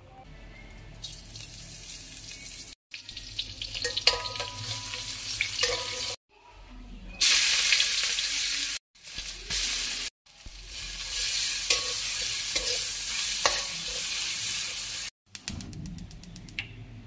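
Chopped shallots frying in hot oil in a metal wok, a steady sizzle while a metal spatula stirs them. The sizzle comes in several stretches that each cut off abruptly.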